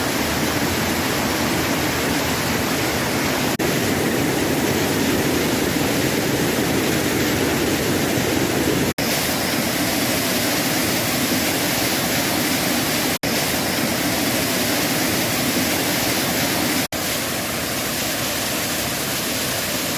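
Large waterfall pouring into a valley pool: a steady, dense rush of falling water. The sound cuts out for an instant three times in the second half.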